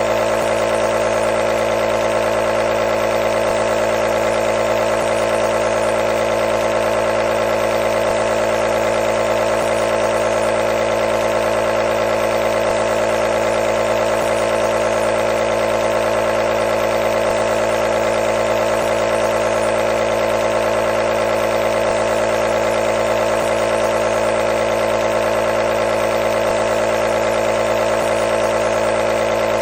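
Nebulizer compressor running, a loud, steady mechanical hum that does not change.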